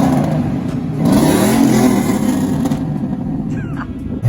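A car engine accelerating, its pitch rising about a second in and again near the end, with wind buffeting the microphone.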